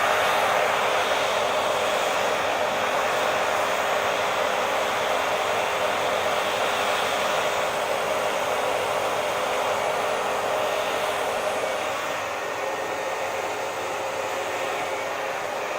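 Hair dryer running steadily: an even rush of blown air with a faint steady hum underneath. About twelve seconds in, the hum fades and the sound gets slightly quieter.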